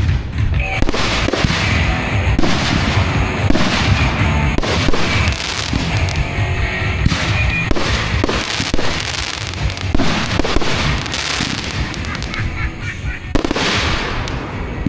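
Fireworks going off in quick succession: a dense, continuous run of bangs and crackles with no break.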